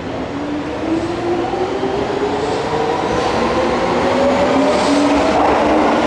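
Keihan electric train accelerating, its traction motors whining in several tones that climb steadily in pitch as the train grows louder over the rumble of the wheels.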